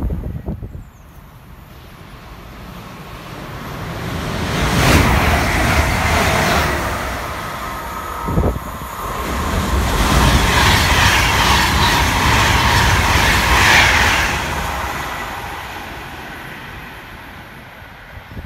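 Virgin Trains Class 390 Pendolino electric train running through at speed. The rush of its wheels on the rails and the air it pushes builds up, is loudest for a few seconds as it passes, then fades away.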